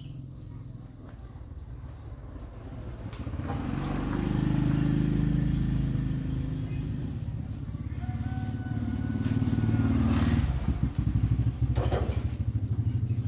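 Small engine running with a steady pulsing beat, its speed and loudness rising about four seconds in, easing off, then rising again around ten seconds.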